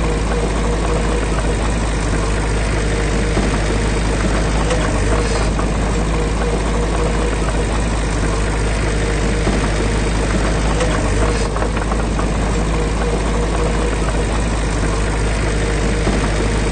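A heavy diesel engine running at a steady speed, with an even low rumble.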